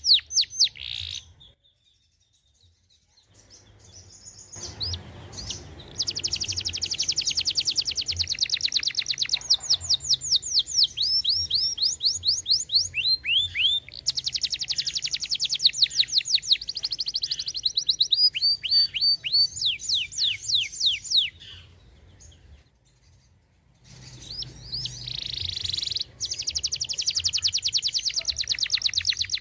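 Domestic canary singing: long runs of fast, high trills and rapidly repeated notes. The song breaks off briefly near the start and again about two thirds of the way through.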